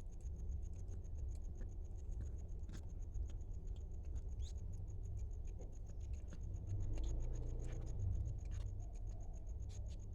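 Scattered light clicks and scratches of a cat eating from its dish on the floor, the plate scraping as it gets pushed around, over a steady low hum.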